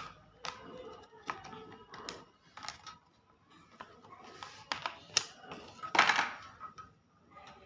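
Sharp plastic clicks and taps from handling the box and tray of boAt Rockerz 255 Pro earphones as they are taken out, with a louder rustle about six seconds in.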